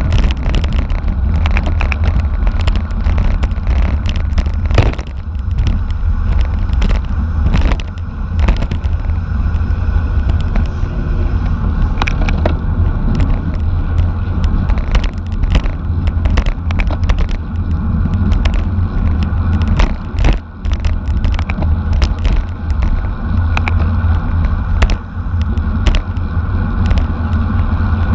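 Wind buffeting and road rumble from a racing bicycle, picked up by a bike-mounted camera's microphone, with frequent sharp clicks and rattles.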